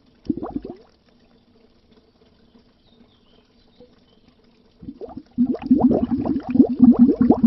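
Bubbles rising under water: a dense run of quick gurgling bubble pops that stops for about four seconds and then starts again about five seconds in.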